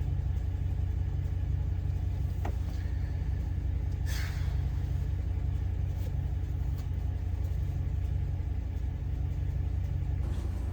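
A 2010 Ram 1500's 5.7-litre Hemi V8 idling with a steady low rumble while a multiple-cylinder misfire is logged even at idle, a fault the owner suspects is mechanical, such as camshaft or lifters.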